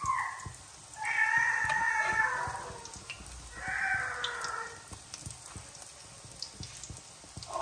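Breaded chicken nuggets shallow-frying in a pan of oil: a steady sizzle with scattered small crackles and pops. Over it, two long high calls of about a second and a half each, one about a second in and one near the middle, are louder than the frying.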